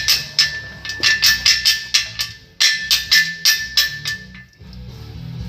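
Quick metallic clicks in two runs of about six a second, each run a couple of seconds long, with a ringing tone under them, over background music.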